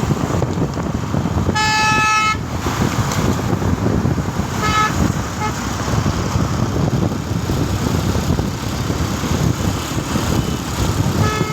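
Road traffic with a steady engine rumble; a vehicle horn sounds for under a second about two seconds in, toots briefly near five seconds, and sounds again at the end.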